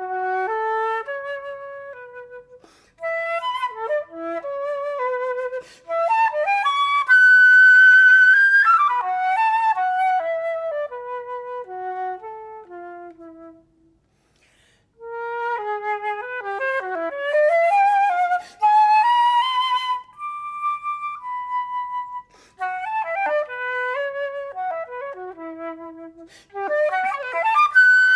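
Unaccompanied flute playing a melody in phrases of quick running notes and held tones, with a pause of about a second around the middle.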